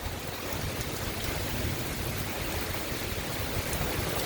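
Heavy thunderstorm rain pouring down in a steady hiss, with a low rumble of gusty wind underneath.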